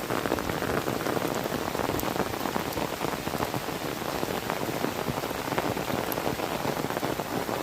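Steady heavy rain, a dense pattering of many close drops.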